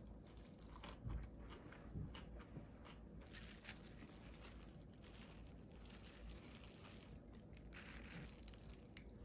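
Faint crunchy chewing of a bite of gimbap with crisp cucumber, with small irregular crackles. The thin plastic food glove rustles as the slices are handled.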